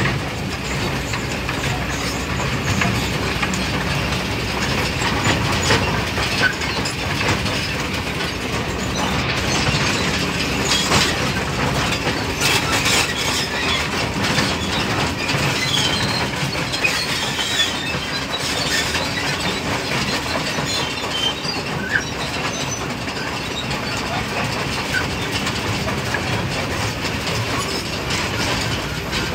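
Excavator at work: its engine running steadily under a continual metallic clatter.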